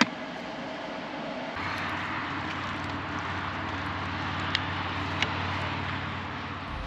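Steady road and engine noise of a moving car. A low drone comes in about a second and a half in, and two faint clicks follow later.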